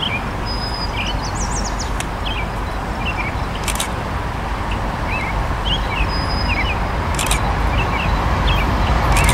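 Songbirds chirping in short repeated calls over a steady low rumble from an approaching Norfolk Southern train, the rumble slowly growing louder as the train draws nearer.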